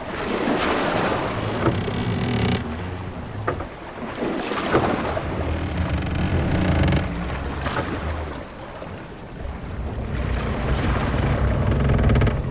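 Sea-voyage ambience of a ship at sea: waves washing and wind in slow swells over a low rumble, with a few brief knocks.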